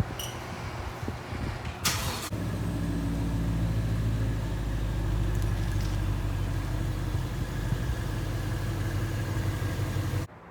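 A long-idle motorcycle engine running rough and unevenly, then, after a short burst of noise about two seconds in, settling into a steady low running note that stops abruptly near the end.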